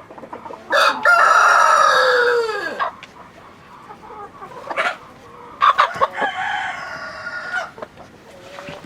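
A rooster crowing twice, each crow a long call of about two seconds, the first ending with a falling pitch.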